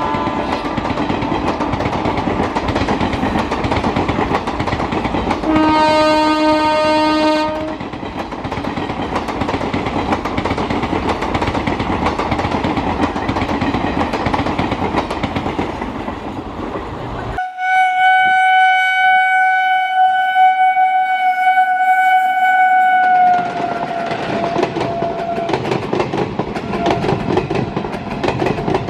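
Indian Railways passenger train passing close by, its wheels rattling steadily over the track joints. The locomotive horn sounds twice: a short blast about six seconds in, then a long blast of about six seconds from about seventeen seconds in, which dips slightly in pitch at its end.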